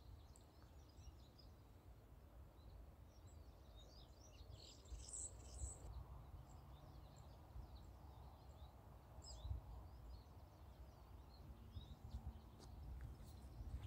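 Near silence: faint scattered bird chirps over a low background rumble.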